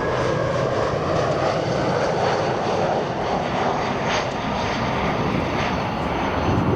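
Airliner's engines running, a steady rush of jet noise as the plane moves near the airfield.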